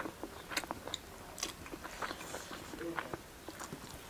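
Close-up eating sounds: chewing and biting of a meal of rice, chicken soup and greens, heard as irregular wet mouth clicks and small crunches.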